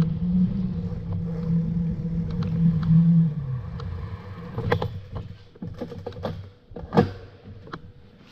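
A low steady motor hum dies away over the first few seconds, then a run of sharp clicks and knocks, the loudest about seven seconds in.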